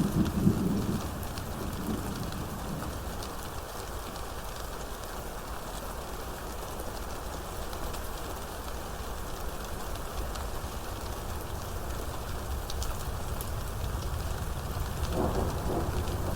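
Steady heavy rain falling, with a short rumble of thunder at the very start and another rumble building near the end.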